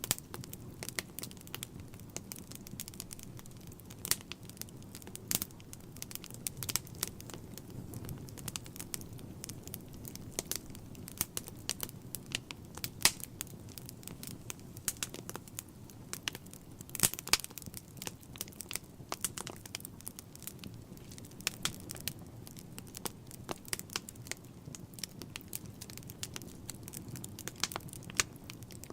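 Wood fire burning in a fireplace: frequent irregular sharp crackles and pops over the steady low sound of the flames.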